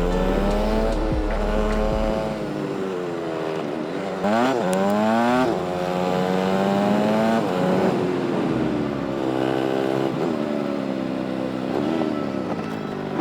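TVS Apache RTR 200 4V's single-cylinder engine running on the move, its pitch rising and falling with throttle and gear changes. About four seconds in it revs up sharply, then drops back.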